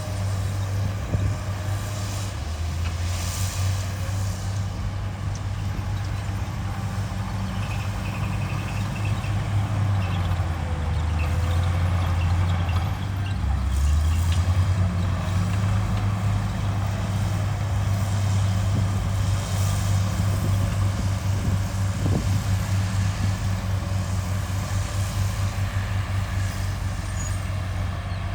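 Heavy diesel engines of earthmoving machines running under load: a continuous low drone that grows louder in the middle of the stretch and shifts in pitch as the engines work.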